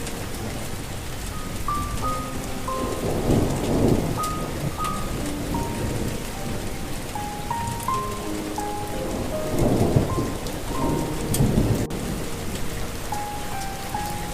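Steady rain with rolls of thunder, one about three seconds in and a longer one around ten seconds. A soft melody of short single notes plays over the rain.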